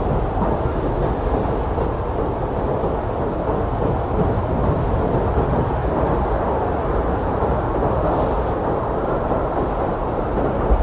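Blizzard wind blowing hard and steadily: a deep, even rushing noise with most of its weight low down and little hiss on top.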